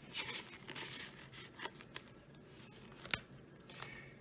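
Paper banknotes rustling and crinkling as cash is handled and slipped into a budget envelope, in a few short bursts, with one sharp click a little past three seconds in.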